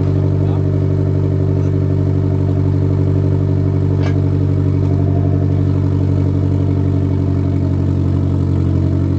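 Nissan Silvia S15's four-cylinder engine idling steadily through a freshly fitted Blitz Nür Spec 3-inch cat-back exhaust.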